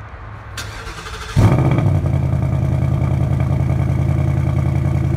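2018 Ford Mustang GT's 5.0 L V8 starting through its stock exhaust in standard exhaust mode: the engine fires about a second and a half in with a loud rev flare, then settles into a steady idle.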